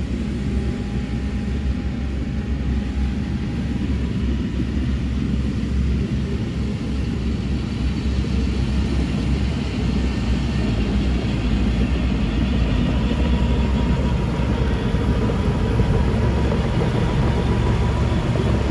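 Heavy diesel engines of earthmoving machines running steadily: a low rumble that grows gradually louder through the second half.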